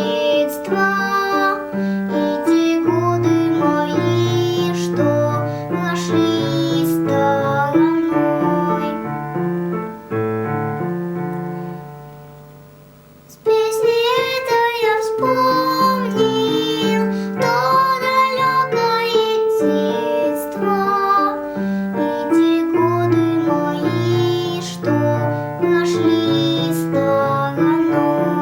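A young girl singing a song over a piano-keyboard accompaniment. About ten seconds in the music fades down, then cuts back in suddenly a few seconds later.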